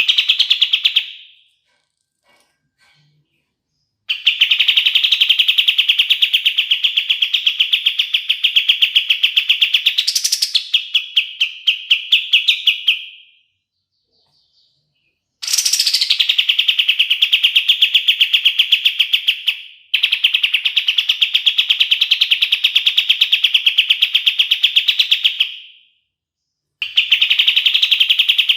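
Kapas tembak bird singing long rattling trills of fast, evenly repeated notes at a steady high pitch, in several bursts of a few seconds to about nine seconds each, separated by brief pauses.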